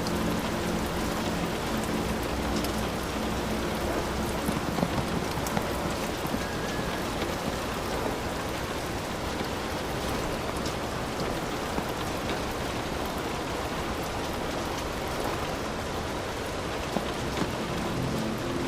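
Heavy rain falling steadily, with single drops tapping sharply close by. A low hum sounds for the first few seconds.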